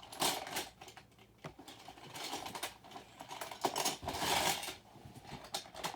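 Small plastic building-brick pieces clicking and clattering as they are handled and sorted, with irregular sharp clicks and a longer rustle about four seconds in.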